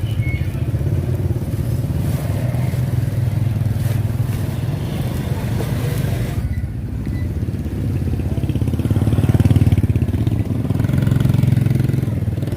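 An engine running steadily with a low drone, growing louder around nine seconds in and again about eleven seconds in.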